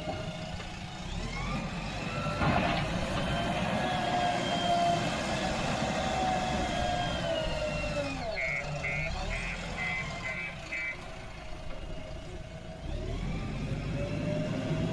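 Backhoe loader's diesel engine working, its pitch rising and falling as it is revved, with a clank about two and a half seconds in. Its reversing alarm beeps about six times in a row a little past the middle.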